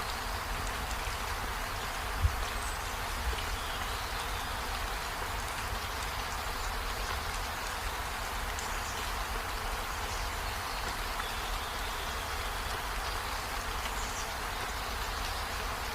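Steady rain falling, an even hiss with a low rumble beneath, and a single sharp thump about two seconds in.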